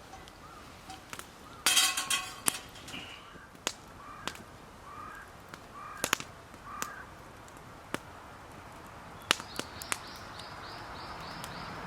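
A crow caws loudly about two seconds in, followed by several shorter, fainter calls. Sharp clicks and pops are scattered throughout, and a quick run of high chirps comes near the end.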